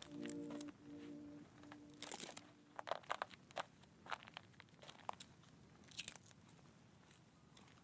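Soft background music ends in held notes that die away in the first second and a half, followed by faint, scattered small clicks and crackly rustles.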